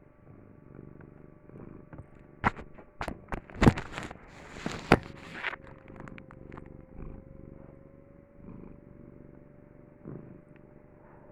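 Domestic cat purring steadily, a low, even rumble. Between about two and five seconds in, several sharp knocks and a brief rustle come in louder than the purring.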